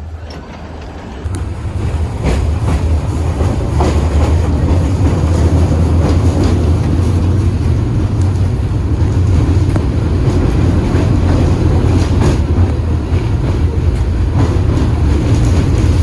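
KTM-8KM tram running on its rails with a low rumble, growing louder over the first few seconds as it picks up speed, with a few sharp clanks from the wheels.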